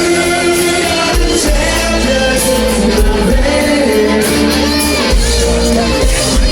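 Live rock band playing loudly, with held sung notes over a heavy bass and some shouting from the crowd.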